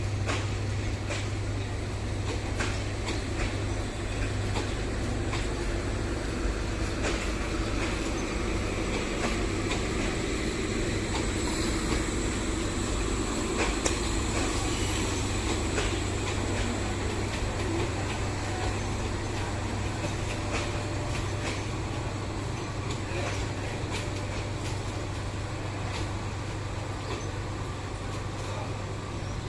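Moving train: a steady rumble of wheels on the track, with scattered irregular clicks and rattles.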